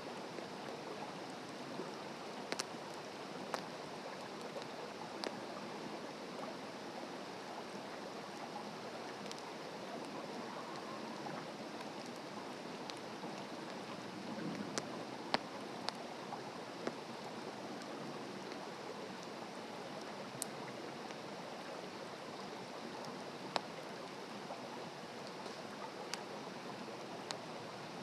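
Wood campfire burning: a steady hiss with scattered sharp pops and crackles from the burning wood.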